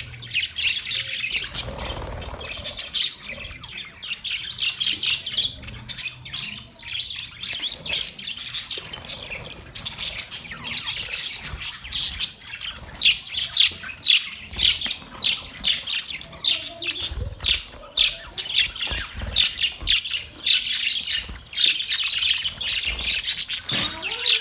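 Budgerigars chirping and chattering in a dense, continuous stream of rapid, high chirps and squawks.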